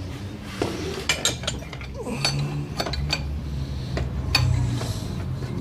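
Metal tools and engine parts clinking and tapping in a series of sharp clicks with a short ring, as the bolt is fitted to the camshaft pulley, over a steady low hum.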